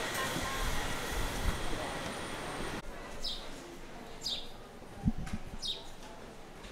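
Busy outdoor crowd ambience with faint voices, which drops away suddenly about three seconds in. A small bird then calls with short, quick, falling chirps, one every second or so, and there is a dull thump about five seconds in.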